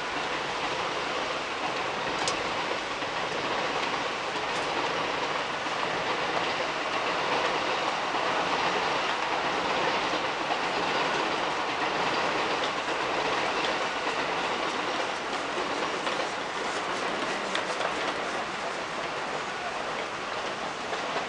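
A train passing: a steady rumble and rush that swells to its loudest around the middle and then eases off, with light clicks near the end.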